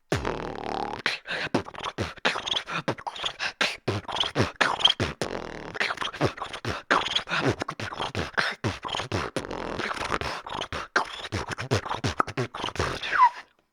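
Human beatboxing: a fast, unbroken run of mouth-made kicks and snare-like clicks, mixed with short pitched vocal sweeps. It stops abruptly near the end.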